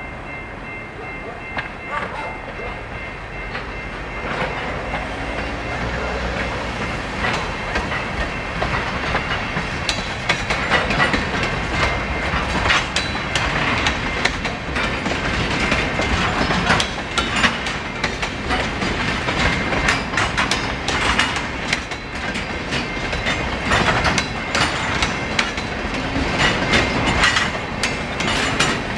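Safetran Type-2 electronic crossing bell ringing with a repeating high ding while a freight train of tank cars passes through the crossing, its wheels clicking and clattering over the rail joints. The train noise builds over the first several seconds and then stays loud.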